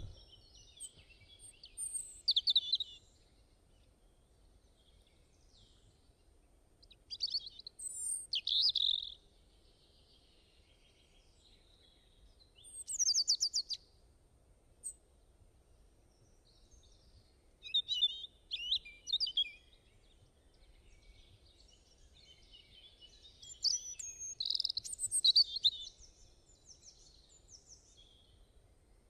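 Songbird singing short phrases of quick, high chirps about every five seconds, five phrases in all, over a faint low background noise.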